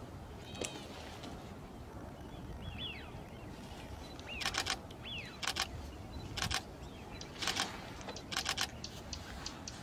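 Camera shutters clicking in quick bursts, about five bursts in the second half, over a few short downward-sliding bird calls.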